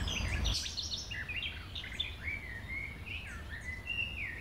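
Small songbirds chirping and singing in a garden: many quick high notes and short downward-sliding whistles. A low rumble stops abruptly about half a second in.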